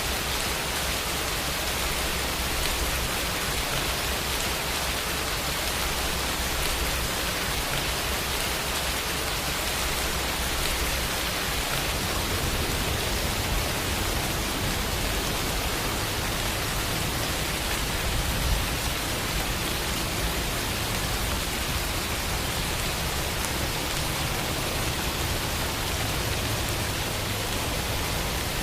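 Steady rainfall, an even hiss of many drops with no let-up.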